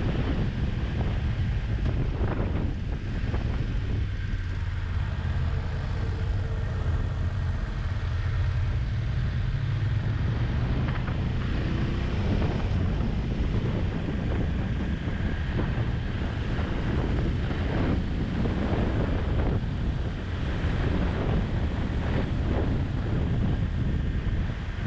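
Motorcycle riding at speed, with heavy wind buffeting on the microphone over the engine running underneath.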